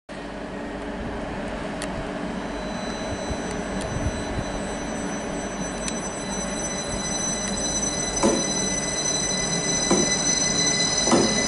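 Northern Class 333 electric multiple unit running into the station platform, growing steadily louder. High steady squealing tones build from about two seconds in, and a few sharp clunks come near the end.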